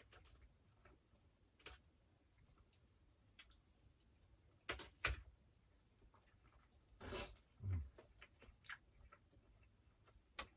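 Quiet small-room tone broken by scattered faint clicks and light knocks from a man eating: utensil taps and chewing. The loudest are two sharp clicks about five seconds in, then a short brushing sound with a low thump a couple of seconds later.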